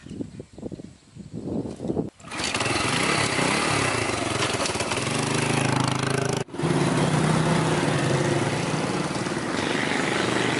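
A few low knocks, then about two seconds in a small engine starts running loudly and steadily, with a brief break just past the middle.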